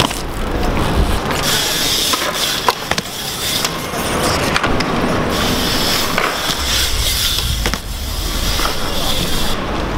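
Wheels rolling over rough pavement, a steady gritty hiss that swells and fades, broken by scattered sharp clicks and knocks.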